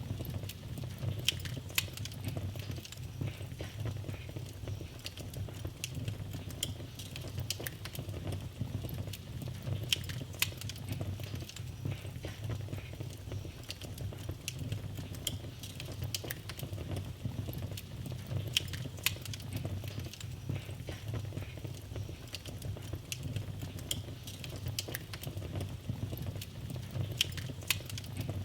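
Wood fire in a fireplace crackling: irregular small pops and snaps over a steady low rumble.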